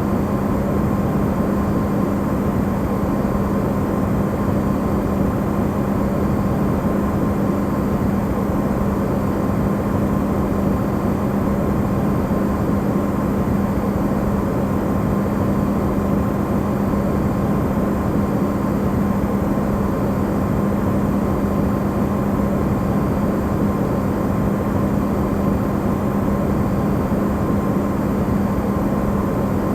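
Amplified refrigerator running: a steady, unchanging hum with a strong low tone and a fainter higher one over a bed of noise, used as white noise.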